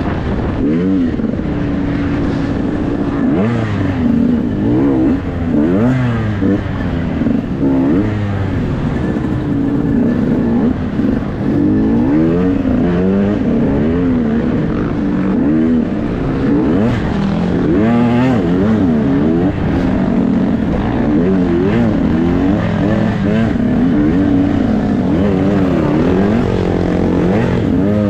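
Dirt bike engine revving up and down over and over, its pitch swooping up and falling back every second or so as the throttle is worked, loud and continuous.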